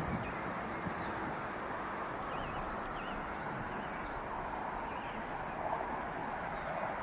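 A small songbird calling a quick run of short, high, downward chirps and a few wavering notes, over steady outdoor background noise.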